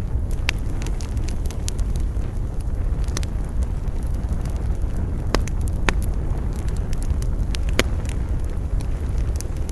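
Wood campfire crackling, with sharp pops at irregular intervals, the loudest a little past the middle, over a steady low rumble of wind.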